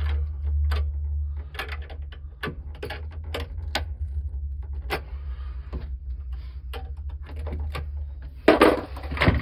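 Scattered small metallic clicks and rattles of wires and small parts being handled while making the water heater's electrical connections, over a steady low hum, with a louder scraping rustle near the end.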